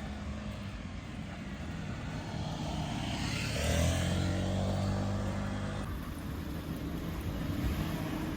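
A motor vehicle's engine and road noise, a low hum that grows louder to a peak about four seconds in.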